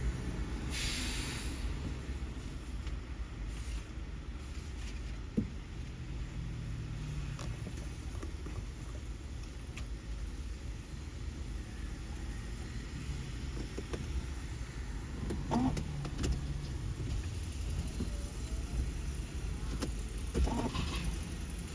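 Diesel engine of a Scania recycling truck running with a steady low rumble, with a few short knocks and clatters over it.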